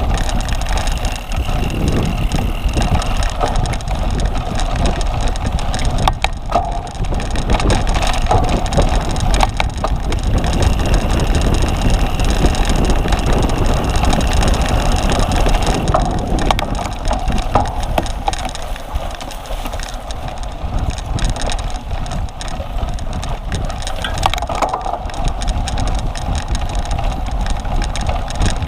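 Cyclocross bike ridden hard over rough dirt and grass, with a steady rumble of wind and tyre noise and the bike rattling and knocking over bumps.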